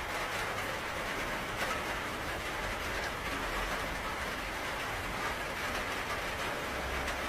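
Steady rain falling, an even hiss with a few sharper drop ticks and a low rumble underneath.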